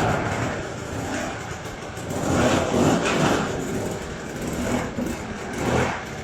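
A motor vehicle engine running, rising and falling in pitch and loudness a few times.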